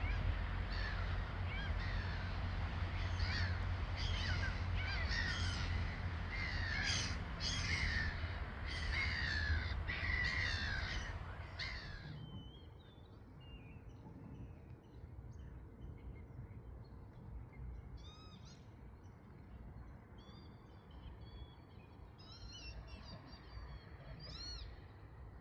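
A flock of birds giving harsh, overlapping calls over a low rumble. About halfway through it cuts off abruptly to a quieter scene with a few scattered bird calls.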